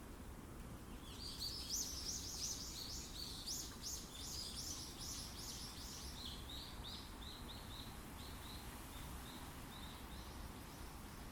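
Wind in the forest as a steady low rush, with a small bird singing a long run of quick high chirping notes from about a second in; the notes come fast at first, then slow and fade toward the end.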